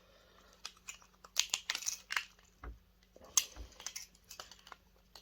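Small plastic and metal parts of a video projector's light unit being handled and pried apart: a scatter of sharp plastic clicks and crackles, with two dull low bumps about two and a half and three and a half seconds in.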